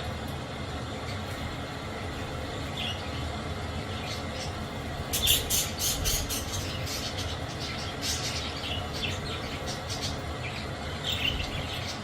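Budgerigars chirping and squawking in short, sharp high calls, in a busy flurry about five seconds in and again in smaller bursts later, over a steady background noise.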